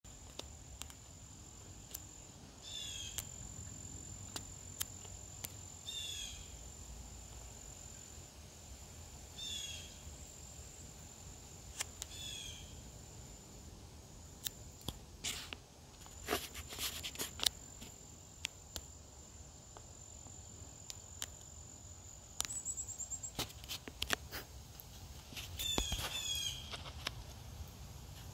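Birds calling: a short call of quick high notes falling in pitch, repeated about every three seconds, with more calls near the end. Under it runs a steady high-pitched tone, with scattered sharp clicks bunched around the middle.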